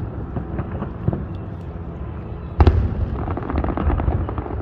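Fireworks: aerial shells popping and crackling, with one loud deep boom a little past halfway, then more crackling.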